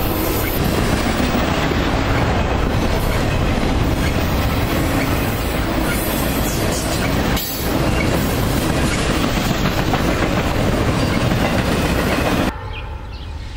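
Double-stack intermodal freight train's container cars rolling past: a steady rumble of steel wheels with clickety-clack over the rail joints. It cuts off sharply near the end to a much quieter outdoor background.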